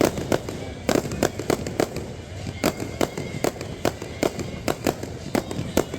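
Fireworks display bursting at close range: a rapid, irregular string of sharp bangs and cracks, about three or four a second.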